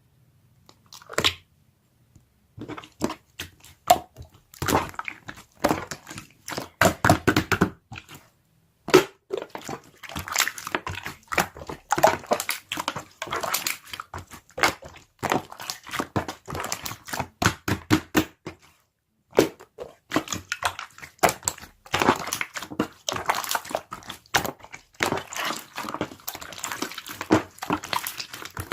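A dog chewing crunchy raw vegetables: rapid, irregular crunches broken by a few short pauses.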